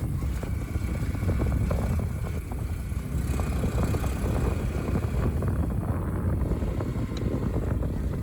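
Honda CT125's single-cylinder engine running steadily while riding, under a heavy low rumble of wind on the microphone.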